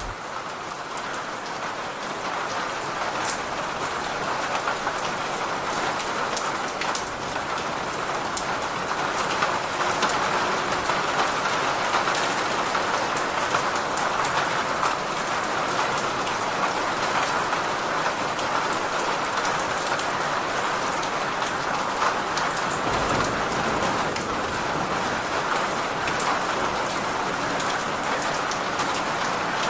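Steady heavy rain, a dense patter of drops hitting a surface, growing a little louder over the first ten seconds or so.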